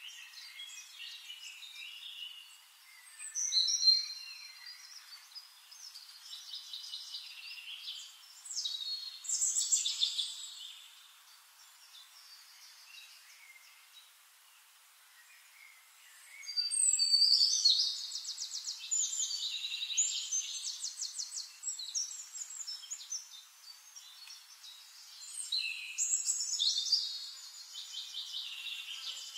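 Birds singing and chirping in several separate bursts of song, some with fast trills.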